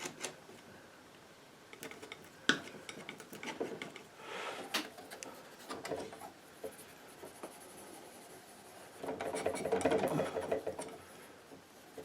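Palette knife scraping and dabbing oil paint on a primed board, with a few sharp taps and a longer stretch of scraping about nine seconds in.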